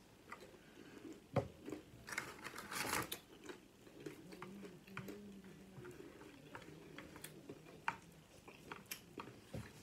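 Chewing on crispy fried chicken taquitos: scattered small crunches and mouth clicks, busiest about two to three seconds in, with a faint low hum behind.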